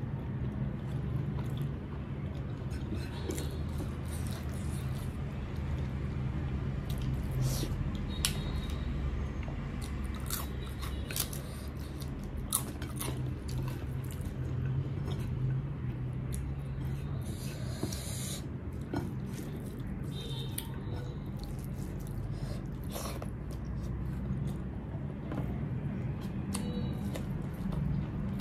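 Close-up chewing and biting of a person eating rice, dal and fried food by hand: wet mouth sounds with scattered short crisp crackles and clicks. A steady low hum runs underneath.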